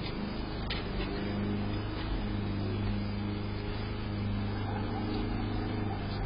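Car driving, heard from a dashcam: a steady engine and road drone with a constant low hum and no sudden impact.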